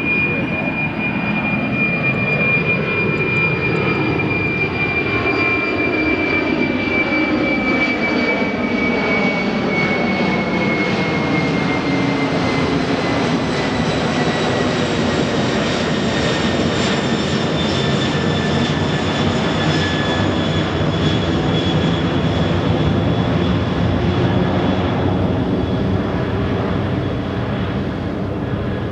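Jet airliner's engines at takeoff power as it passes, a loud steady roar with a high fan whine that slides slowly down in pitch.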